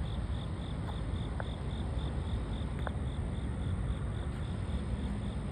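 Night ambience: a steady low rumble of distant traffic under an insect's even pulsing song, about four to five pulses a second, with a couple of faint short chirps.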